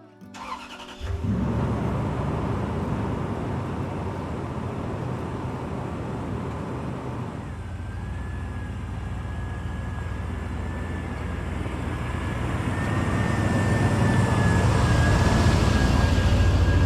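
Truck running: a steady low engine and road rumble that starts suddenly about a second in and grows louder near the end, with a faint steady whine joining about halfway.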